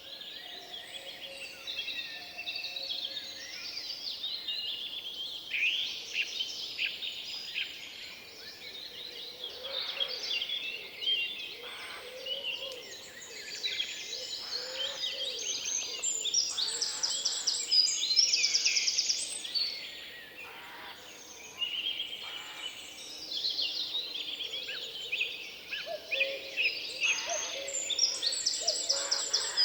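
Several songbirds singing over one another in woodland, a dense mix of whistled phrases and fast trills, busiest about halfway through and near the end.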